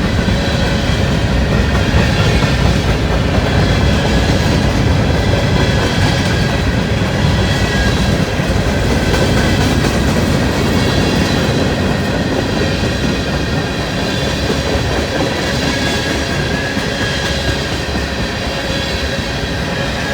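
Freight cars of a long train rolling past: steel wheels running on the rails with a steady rumble and clatter, with a faint, steady squeal from the wheels, easing off slightly near the end.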